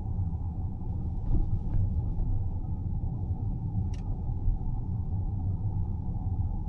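Steady low rumble of a car driving along a road, road and tyre noise with the engine underneath, with a single sharp click about four seconds in.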